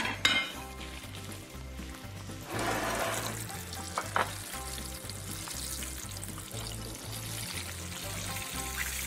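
Background music with a steady, pulsing bass line over the sizzle of floured fish deep-frying in a pan of hot oil, with a short click about four seconds in.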